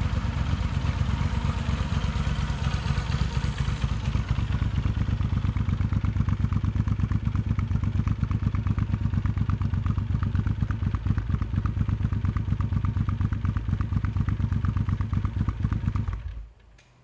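Moto Guzzi V7 Cafe's air-cooled transverse V-twin idling through a Mistral aftermarket exhaust, an even, rapid pulsing beat. It cuts off about 16 seconds in as the engine is switched off.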